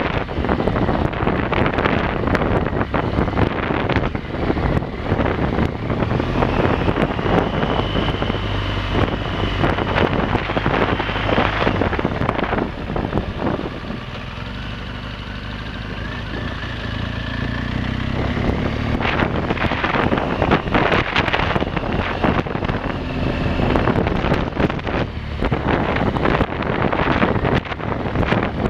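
Motorcycle engine running under way, heavily mixed with wind buffeting on the microphone. About halfway through the wind noise drops for a few seconds and the engine note comes through clearer, then the buffeting builds again.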